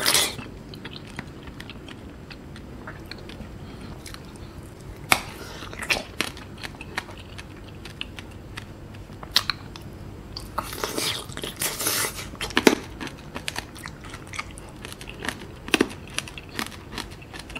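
A person chewing a sugar-coated kiwi piece (tanghulu) close to the microphone. Soft chewing is broken by scattered crisp crunches of the thin candy shell, with a run of louder crunches about eleven seconds in.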